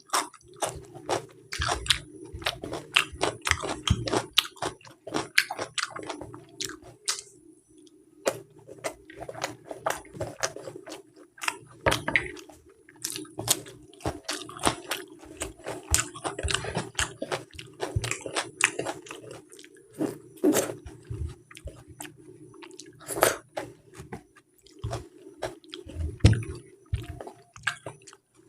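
Close-miked chewing of a mouthful of pulao rice and potato curry: dense, irregular wet smacks and clicks of the mouth, with occasional louder bites. A steady low hum runs underneath.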